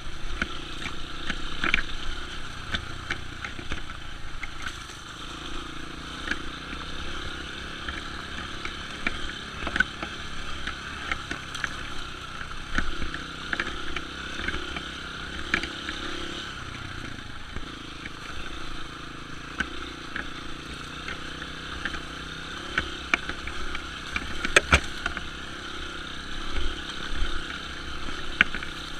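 Dirt bike running along a trail, its engine noise steady, with frequent sharp knocks and clatter from the rough ground and one loud knock about 25 seconds in.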